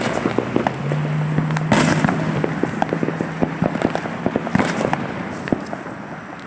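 Firecrackers popping: dozens of sharp, irregular cracks in quick succession, with a louder burst about two seconds in. A low steady hum lies under the first few seconds.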